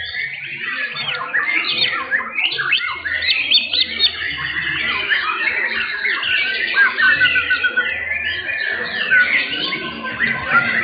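Several young white-rumped shamas singing at once, a dense tangle of overlapping fast whistled phrases, chatters and trills, with a quick rattling trill about seven seconds in.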